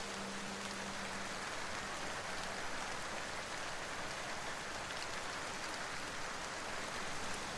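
Steady rain, an even hiss of falling rain with no distinct drops or thunder. A few held notes of soft background music fade out about a second and a half in.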